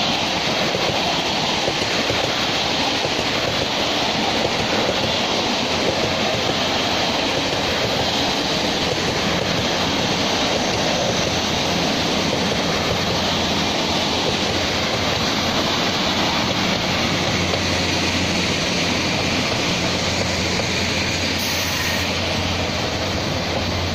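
Taiwan Railways DR2800-series diesel multiple unit pulling into the station past the platform: a steady rumble of wheels on rails and running gear. A low, steady engine hum comes up in the last several seconds as it slows.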